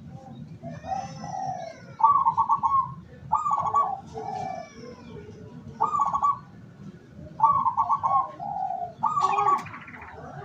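Zebra doves (local perkutut) cooing: a run of short, rapid staccato coo phrases repeated every one to two seconds, some answered by a lower note. Faint high chirps of small birds sound above them.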